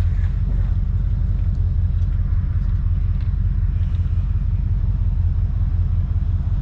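A 32-year-old Ford F-150 under way, heard from inside the cab: a steady low engine and road hum with no change in pitch.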